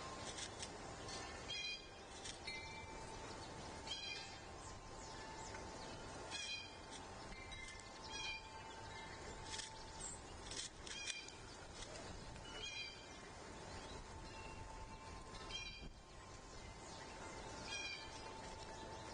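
A bird calling outdoors, repeating a short call about every two seconds, over faint steady background tones and hiss.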